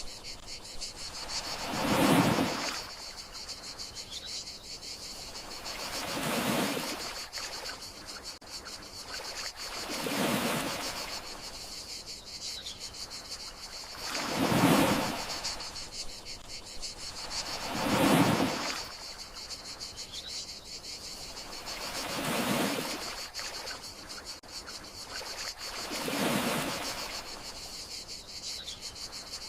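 Gentle sea waves washing onto the shore about every four seconds, each swelling and falling away, over a steady high chirring of crickets. A faint short bird-like chirp comes about every eight seconds.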